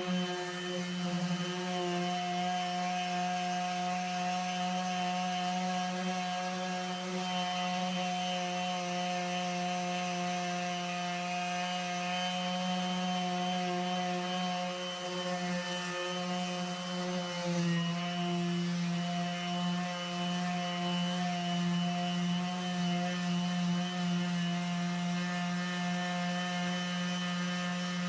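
Electric sander running steadily with a constant whine while sanding fiberglass gelcoat; its pitch dips slightly about two-thirds of the way through as it takes more load.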